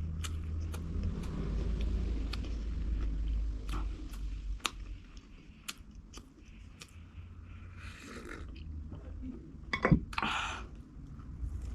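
A person chewing food close to the microphone, with scattered wet mouth clicks and a louder, sharp crunch about ten seconds in.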